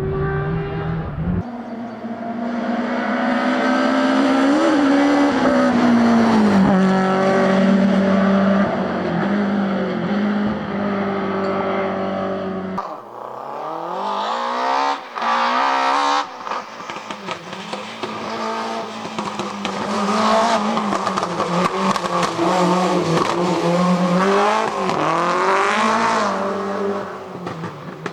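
BMW E30 M3 Group A rally car's four-cylinder engine driven hard, its note climbing through the revs and dropping back at gear changes and lifts. The sound jumps abruptly about 1.5 and 13 seconds in.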